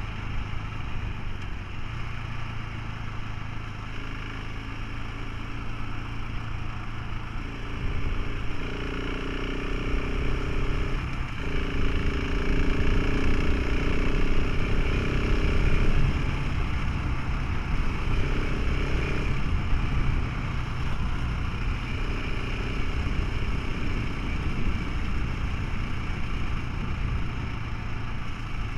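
Motorcycle engine running as it is ridden along the road, over a steady rush of noise. Its note climbs and grows louder from about eight seconds in, peaks in the middle, and eases back after about twenty seconds.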